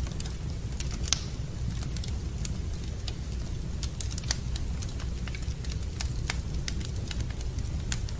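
Wood fire in a fireplace crackling, with irregular sharp pops over a steady low rumble. A louder pop comes about a second in and another past four seconds.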